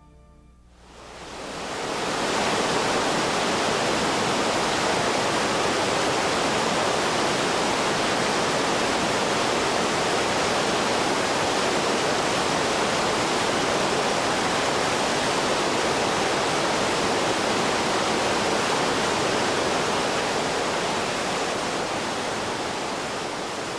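Steady, even rushing noise with no pitch to it, fading in over the first two seconds and easing slightly near the end.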